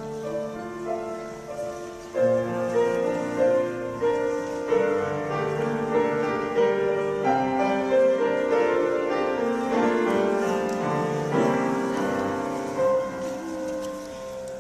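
Live performance of a choir singing with piano accompaniment, getting fuller and louder about two seconds in.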